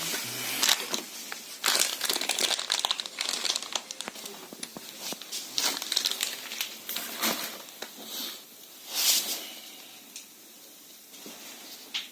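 Irregular crinkling and scraping noises with occasional sharp clicks, busier in the first half and sparser near the end.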